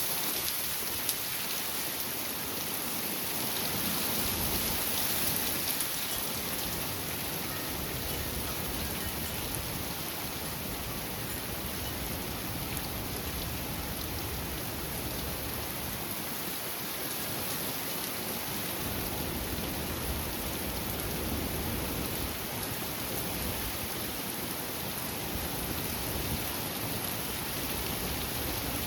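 Heavy rain and strong thunderstorm wind gusts: a steady rush of rain noise with low, rumbling surges of wind.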